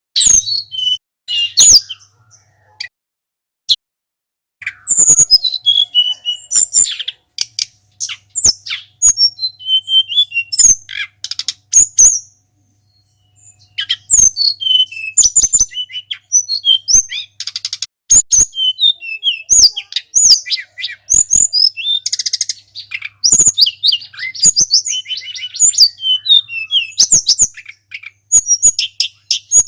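Sulingan gunung songbird singing a fast, loud string of high chirps and whistling notes, in bursts with two short pauses, mixed with sharp clicking notes.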